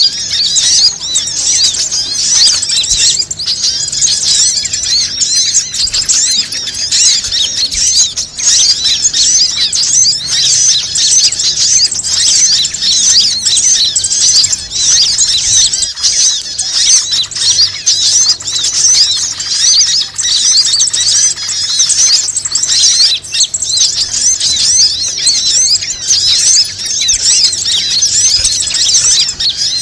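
Dense, unbroken chatter of many small birds chirping rapidly at once, high-pitched and steady, a bird-luring call.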